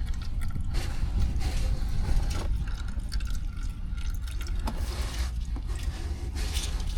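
Leftover engine oil draining from the oil filter housing through the plastic drain tube, trickling and dribbling steadily, with a low steady hum underneath.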